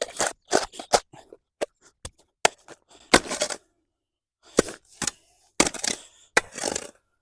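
Woody undergrowth and twigs snapping and crunching as they are cut back, in irregular sharp cracks with short pauses between them.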